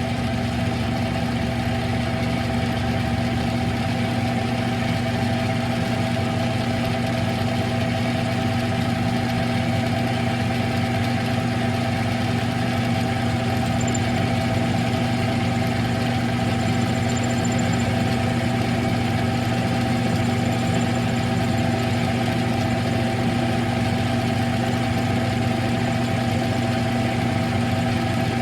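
Smithy CB-1220XL 3-in-1 combination lathe running steadily, its motor giving a constant hum with several held tones, while a Harley four-speed transmission fill plug is faced in the chuck.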